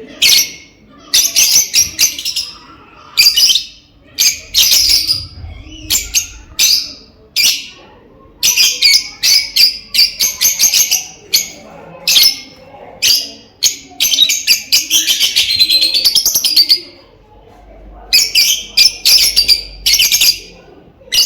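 Lovebirds chattering in rapid bursts of shrill chirps, with short pauses between bursts and a longer unbroken run of chatter a little past the middle.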